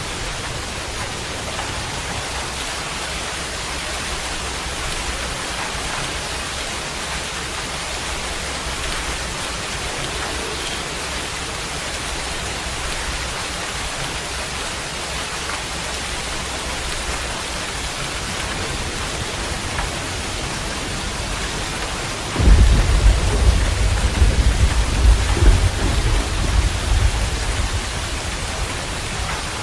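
Steady rain hissing and pattering. About three-quarters of the way through, a sudden loud roll of thunder comes in, deep and rumbling for several seconds before dying back into the rain.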